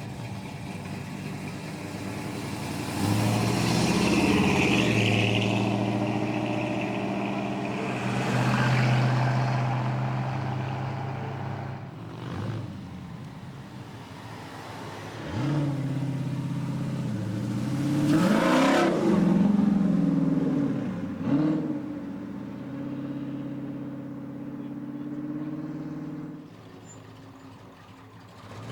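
American V8 cars' engines and exhausts revving and accelerating past one after another, with loud pulls about three, eight and eighteen seconds in and a steady engine note in between.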